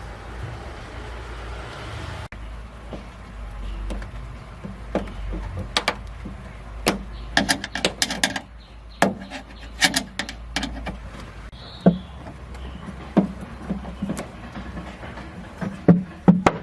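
Irregular sharp clicks and knocks, coming more often from about five seconds in and loudest near the end, over a steady low hum.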